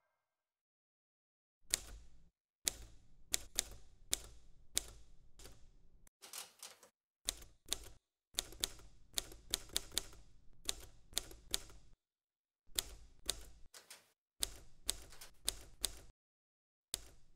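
Typewriter typing: the typebars strike the paper in irregular runs of sharp clacks, with short pauses between runs. It starts after about a second and a half of silence.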